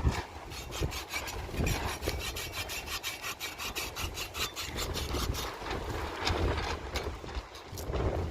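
Rapid rhythmic scraping strokes, about five a second, that stop about five and a half seconds in; a few slower scrapes follow near the end.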